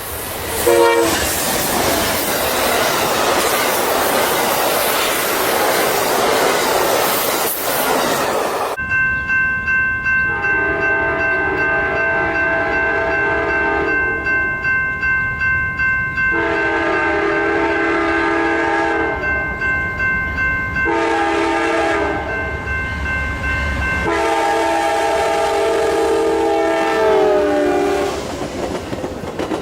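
Amtrak passenger train running past close by with a loud rush of noise. After a sudden change about nine seconds in, its multi-chime locomotive horn sounds in several long blasts and a short one, with wheels clicking over rail joints beneath.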